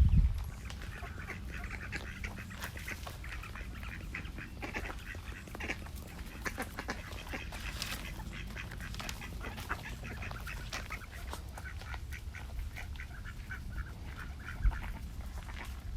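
Ducks quacking in rapid, repeated short calls, over a low rumble of wind on the microphone, with a single thump near the end.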